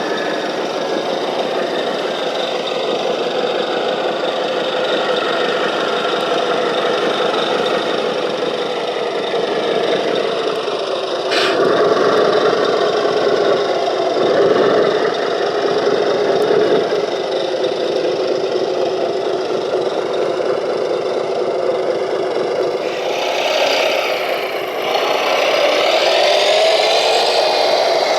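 Radio-controlled construction vehicle models working: steady motor and gear noise. There is a sharp click about eleven seconds in, and rising whines near the end as the motors speed up.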